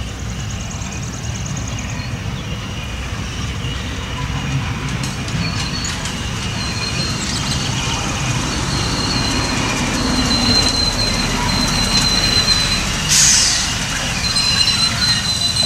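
Steam-hauled passenger coaches rolling past, a steady rumble of wheels on rail that grows louder, with thin high wheel squeal coming and going. A brief hiss near the end.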